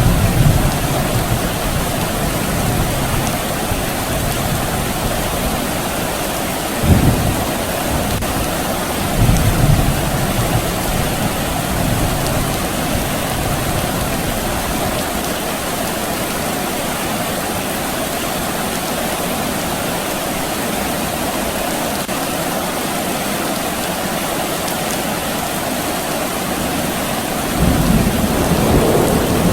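Steady rain falling, an even hiss, with distant thunder rumbling low and briefly several times and a longer rumble near the end.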